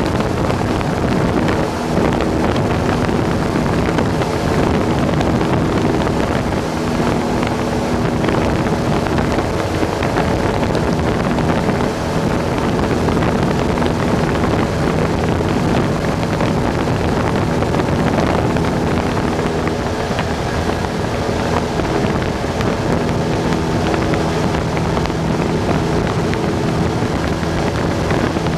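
Cessna 172's piston engine and propeller droning steadily in flight, with a constant rush of wind.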